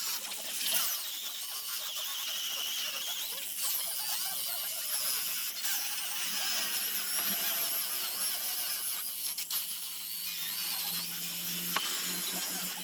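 Small high-speed power tool sanding zelkova root wood: a steady high whine and rasp of abrasive on wood, with a low motor hum underneath and a couple of sharp ticks near the end.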